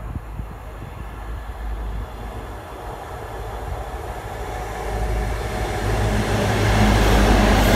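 A Class 43 HST diesel power car approaching at speed with its train. The engine hum and the rail and wheel noise grow steadily louder, peaking near the end as the power car draws level.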